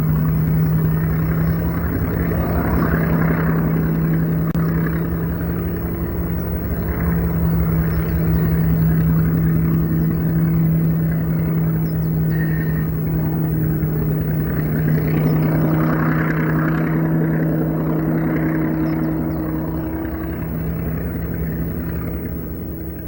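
Diesel switcher locomotive, a Baldwin S12, running under steady power: a constant low engine hum with a fast throb underneath, easing slightly near the end.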